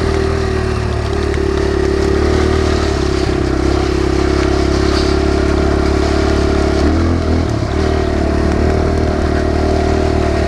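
Kawasaki KLX140 dirt bike's single-cylinder four-stroke engine running steadily under way, with a brief dip and change in pitch about seven seconds in.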